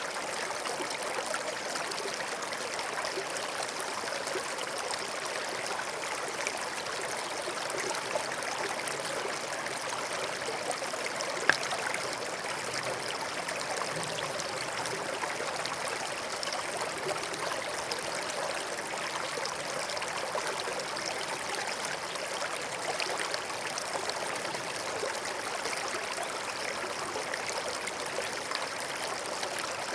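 A small stream running and trickling over stones, with steady babbling and fine splashes, and a single brief click about a third of the way through.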